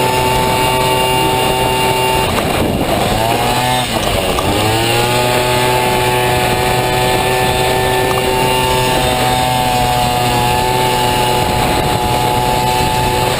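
Honda Dio two-stroke scooter engine in a Motocompo running hard at high, steady revs; about two seconds in the revs drop briefly and then climb back up, with a smaller dip later on.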